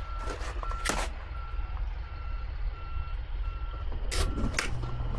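Backup alarm beeping steadily, a single high tone about twice a second, over a low rumble, with a few sharp clicks about a second in and near the end.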